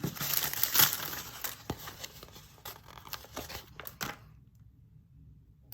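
Small plastic bag of resin diamond painting drills being opened and the drills poured out into a plastic storage container: a dense crinkling rattle for about two seconds, then scattered small clicks that die away about four seconds in.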